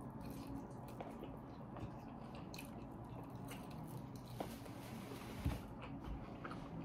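Faint sounds of a person eating chicken wings: biting and chewing with small wet clicks, and a soft knock about five and a half seconds in.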